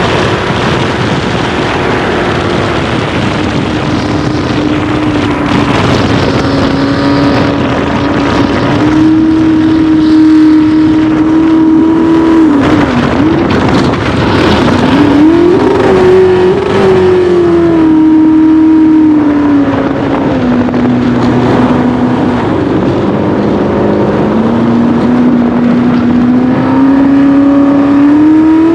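Racing jet boat engine running hard at high revs, its pitch drifting up and down. About halfway through the revs drop sharply and swoop back up, then settle lower and climb again near the end, over a steady rush of noise.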